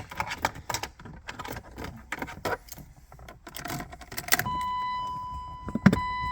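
Keys jangling and clicking in the ignition of a BMW E36 M3. About four seconds in, a steady high whine starts as the ignition is switched on, with a sharp knock about a second later.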